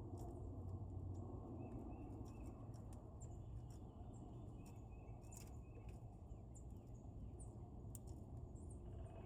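Faint bird chirps in a few short runs of quick notes, over a steady low outdoor rumble.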